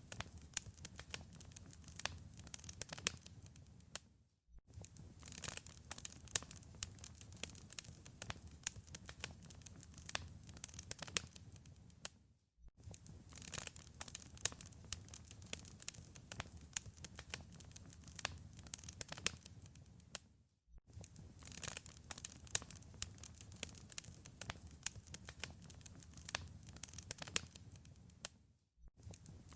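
Wood fire crackling in a fireplace: a dense run of sharp pops and snaps over a low rumble. The sound drops out to silence for a moment about every eight seconds, then resumes.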